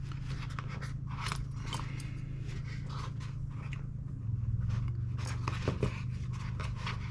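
Hands handling small gun parts and their packaging: irregular scraping and rustling with light clicks, over a steady low hum that grows louder about four seconds in.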